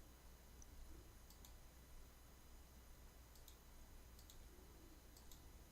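Faint computer mouse clicks, mostly in quick pairs, spaced a second or two apart, over near silence with a faint low hum.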